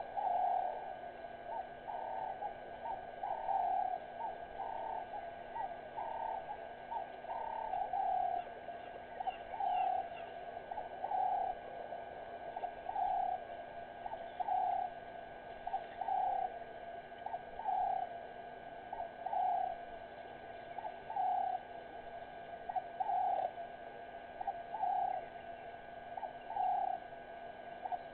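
A bird calling a long series of short, low cooing notes, about one a second, over a faint steady hum.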